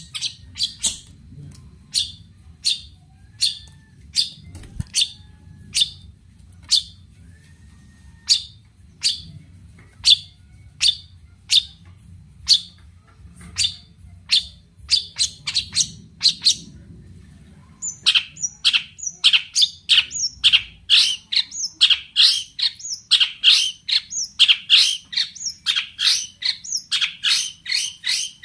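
Long-tailed shrike (cendet) calling in a steady series of short, sharp notes, about two a second. About two-thirds of the way through the notes become faster and louder, a rapid scolding run.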